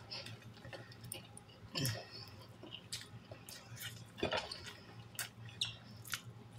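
A person chewing a mouthful of fried chicken sandwich close to the microphone, with many small wet mouth clicks and two louder ones about two seconds and four seconds in.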